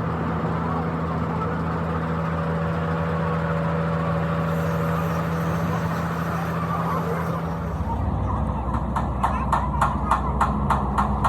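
A machine runs with a steady hum. About three-quarters of the way through, the sound changes abruptly to a rapid, even knocking, about five knocks a second.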